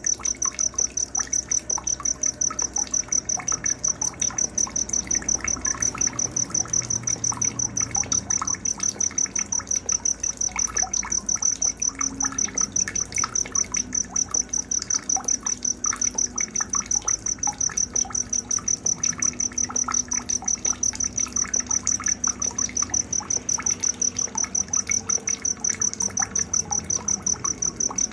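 Night nature ambience: an insect's high, even chirping, several pulses a second, the loudest sound throughout, over scattered bird chirps and a faint trickle of water.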